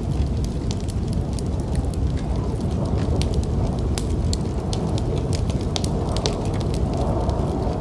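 Wood fire crackling in a fireplace, with frequent irregular sharp pops and snaps, over a steady low rumble of snowstorm wind.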